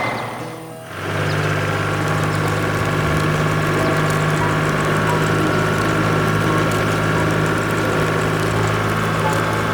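A farm vehicle's engine idling steadily as a cartoon sound effect; it fades briefly and comes back in about a second in.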